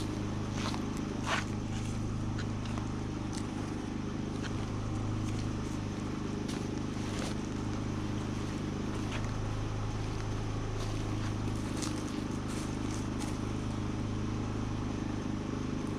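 Steady low engine-like hum with evenly spaced overtones, unchanging throughout, with scattered light clicks and rustles over it.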